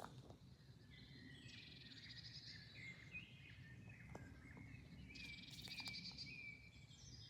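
Faint woodland songbirds singing and calling, with two fast trilling song phrases standing out, one about a second and a half in and one around five seconds in.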